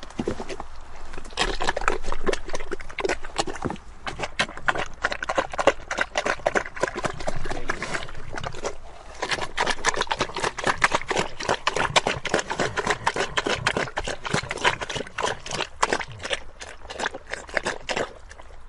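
Pigs grunting in a dense run of short, rapid sounds, with a brief lull about nine seconds in.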